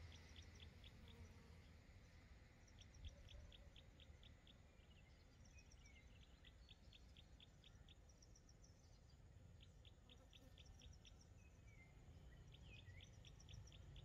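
Faint bird song: a small bird repeating a quick run of six to eight short, high chips about every three seconds, over a low steady rumble.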